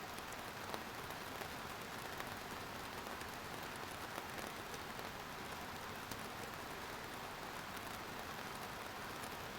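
Steady rain falling, an even hiss of many drops with occasional single drop ticks.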